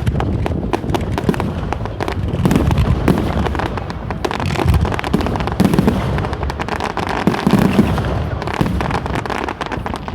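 Loud fireworks display: dense, rapid crackling cracks and pops over continuous low booms, overlapping without a break.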